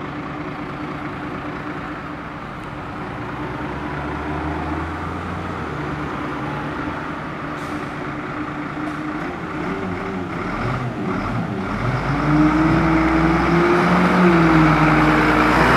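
Diesel engine of a 1998 White-Volvo garbage truck running steadily, getting louder and shifting in pitch in the last few seconds.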